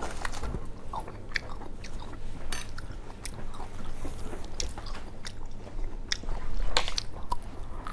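Close-miked chewing and biting of a cherry, heard as a scatter of short mouth clicks over a low hum.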